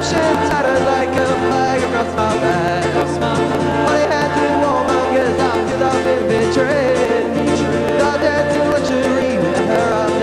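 Folk-rock band music, a full band playing steadily with a wavering melody line over the accompaniment.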